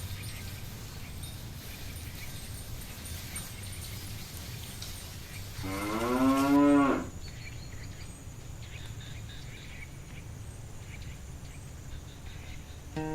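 Cow mooing once, a single call lasting about a second and a half, around the middle.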